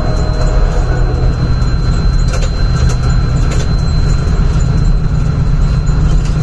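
A train running on the rails: a steady heavy rumble, with a few sharp clacks in the middle.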